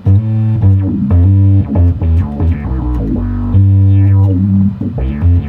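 Electric bass guitar, a '73 Fender Jazz Bass, played through an octave, fuzz and envelope filter pedal chain for a synth-like tone: a riff of loud, thick notes, some held about a second and some short.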